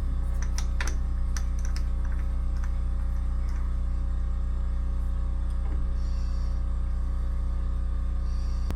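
Metal lathe running with a steady low electric hum, with a few light clicks in the first second or so.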